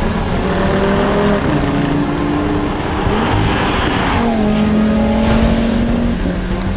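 ABT-tuned Audi TT RS's turbocharged five-cylinder engine under way, its pitch dropping sharply about one and a half seconds in and again past four seconds, with a climb in between, as it changes gear.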